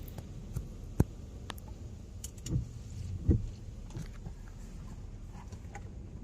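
Low steady vehicle rumble with scattered clicks; a sharp click about a second in and dull thumps about two and a half and three and a quarter seconds in.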